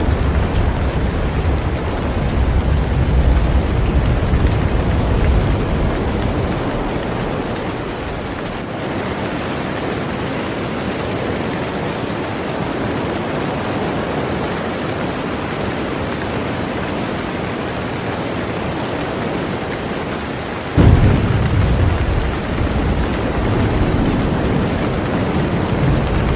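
Heavy rain falling steadily on a boat, a continuous hiss. A deep low rumble runs under it at first, fades after about seven seconds, then comes back suddenly and loudly about 21 seconds in.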